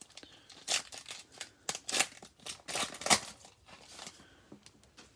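Plastic wrapper of a Mosaic basketball card pack crinkling and tearing as it is ripped open: a quick run of sharp, irregular crackles that dies away after about four seconds.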